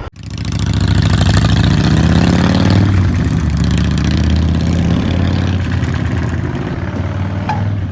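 Royal Enfield Himalayan's single-cylinder engine running, building up over the first second or two and then holding steady.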